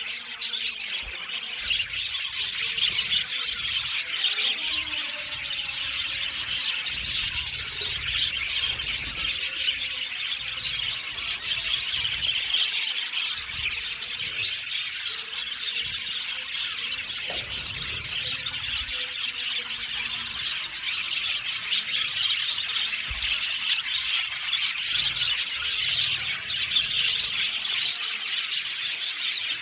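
A colony of budgerigars chirping and chattering continuously, many birds calling over one another at a steady level.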